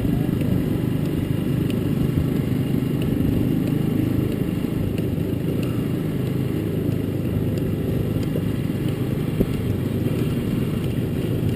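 Steady engine and road noise of a moving vehicle, running at an even speed without changing pitch.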